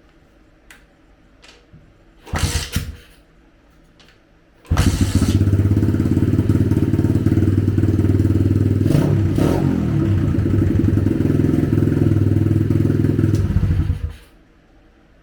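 125cc dirt-bike engine of a drift trike: a short sputter about two seconds in, then it starts about five seconds in, runs steadily for about nine seconds and cuts off suddenly.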